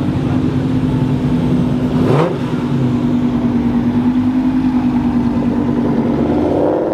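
A car engine running steadily at low revs, with one quick rev blip about two seconds in and the revs starting to climb again near the end.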